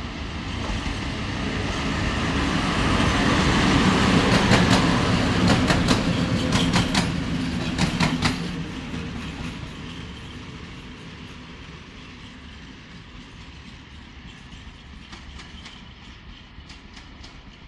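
Freight locomotive passing through a station: its running noise builds as it approaches, with a quick run of wheel clicks over the rail joints as it goes by about four to eight seconds in. It then fades as it moves away, with a few faint clicks near the end.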